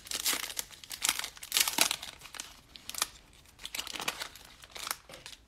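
Plastic wrapper of a trading card pack crinkling and tearing as it is opened by hand, in irregular bursts that thin out near the end.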